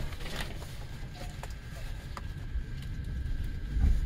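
Shinano Railway SR1 series electric train running just after pulling out of a station: a steady low rumble of wheels on rail with scattered short clicks, and a thin steady high tone that sets in about a second in.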